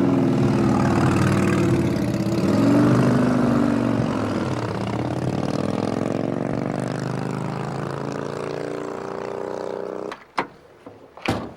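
A car engine running, its pitch rising and falling as it revs, then fading steadily as it moves away. Two sharp knocks near the end.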